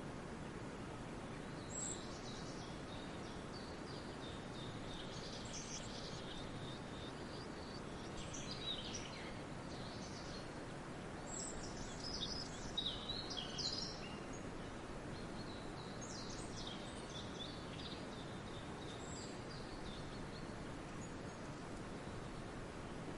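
Songbirds chirping and calling in a forest, in scattered bursts of short high notes over a steady low background hiss of outdoor ambience, busiest around the middle.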